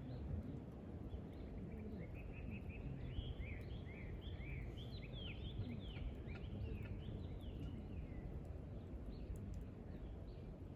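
Wind rumbling on the microphone over a small campfire, with a few faint crackles. A bird sings a run of quick chirping notes from about two seconds in until about eight seconds in.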